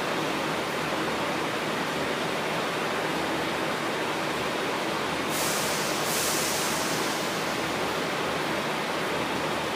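A train running through the station: a steady rushing noise of wheels and running gear, with a short high hiss of air about five seconds in.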